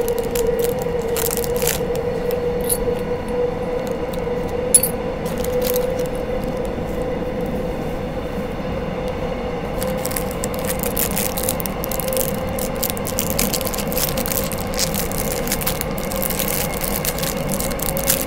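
Electric commuter train running, heard from inside the carriage: a steady rumble with a steady hum. Small clicks and crackles of handling come and go over it, more in the second half, with one sharp click about five seconds in.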